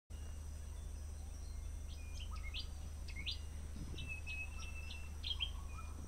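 Birds chirping in short calls and quick upward-sweeping notes, over a steady low hum.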